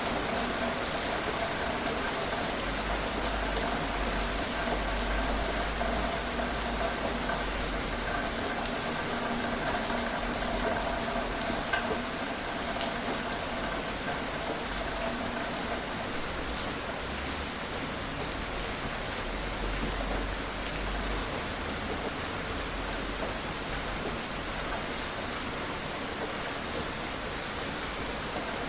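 Gentle rain falling steadily: an even hiss with scattered drops ticking on a surface.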